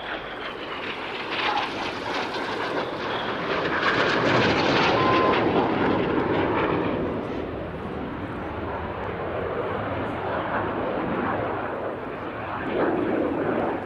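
BAE Hawk T1 jets with Rolls-Royce Turbomeca Adour turbofans flying past. The jet noise builds to its loudest about four to six seconds in, stays strong, then swells again near the end.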